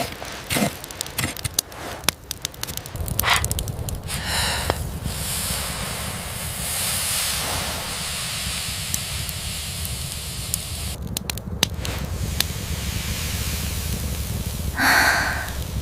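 Wood fire crackling with scattered sharp pops, over a steady hiss of rain. A short, louder sound comes near the end.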